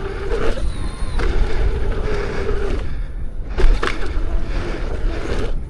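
Lynx electric unicycle ridden at speed over a rocky dirt track: wind on the microphone and tyre rumble, a steady motor whine, and a few sharp knocks from rocky hits through the suspension, the loudest about three and a half seconds in.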